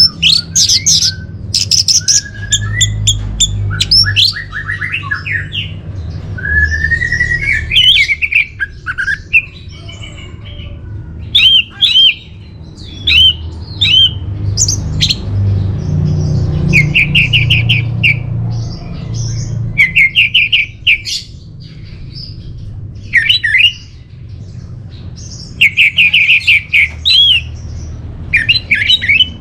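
Orange-headed thrush singing a varied song of sweeping whistled phrases broken by quick runs of rapidly repeated notes, phrase after phrase with short gaps.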